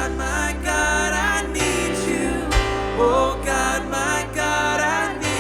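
Live worship band music: sung vocal phrases over guitar, keys, bass and drums, in a contemporary Christian praise song.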